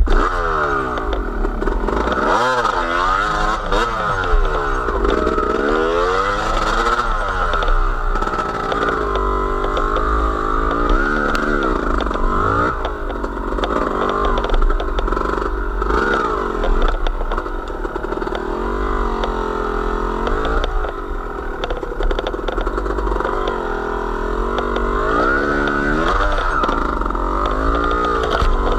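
Engine of a small vehicle being ridden, its pitch rising and falling repeatedly as the revs go up and down.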